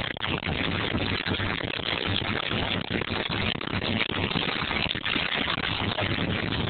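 Steady vehicle engine hum mixed with loud road noise.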